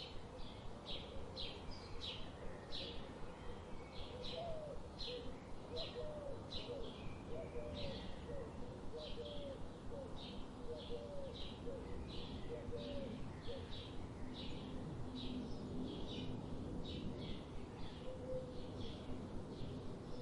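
Birds singing: a steady run of short, high chirps about two a second, with a series of lower repeated notes from about four to ten seconds in, over a faint outdoor hiss.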